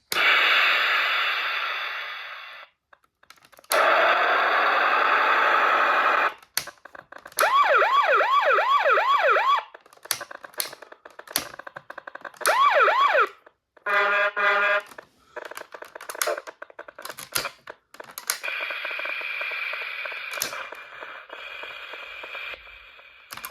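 Toy train remote controllers playing a series of short built-in electronic sound effects, with clicks of button presses between them. There are two hissing bursts, a wailing siren that rises and falls about three times a second, a brief horn-like tone, and a fainter hissing sound near the end.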